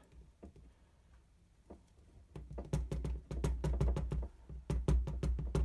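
Quick run of sharp taps and knocks on freshly cured quick-repair putty stuck to the underside of a stainless steel sink, several a second, starting about halfway through. The knocking tests that the putty has set rock hard.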